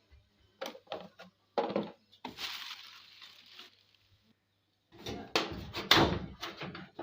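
Knocks and clattering of the plastic cover and casing of a single-tub washing machine being handled and taken off. A rasping scrape lasts over a second about two seconds in, and a quick run of loud knocks comes near the end.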